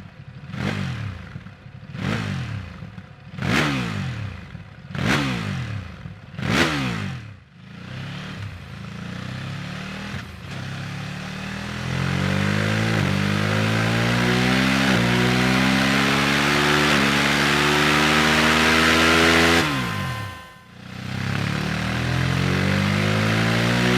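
Ducati Monster 937's V-twin engine through an SC-Project SC1-S carbon slip-on exhaust. It is blipped to high revs five times in quick succession, then settles. From about halfway it pulls up through the revs, dropping back in steps as each gear is shifted. It dips briefly near the end, then climbs again.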